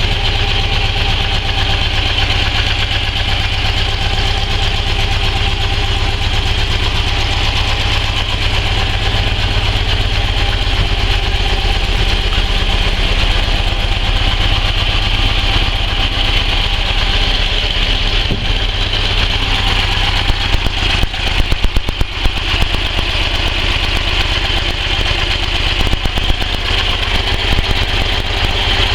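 Customised boxer-twin motorcycle engine idling steadily, with a short uneven, choppy stretch about two-thirds of the way through.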